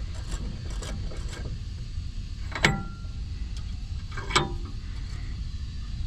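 Metal parts and tools handled on a workbench: light clicks and taps, then two sharp metallic clinks with a short ring, about a second and a half apart, over a steady low rumble.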